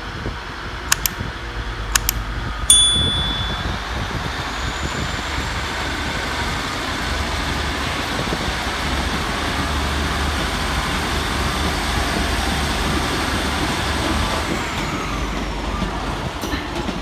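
Diesel passenger train running at a station platform, a steady rumble under the engine noise. A few sharp clicks come early, and a loud clank with a brief high squeal about three seconds in.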